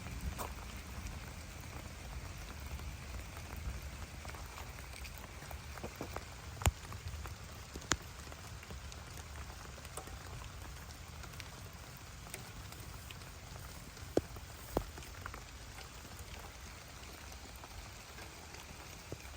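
Steady rain falling, with a few louder single drops striking close by, scattered through it.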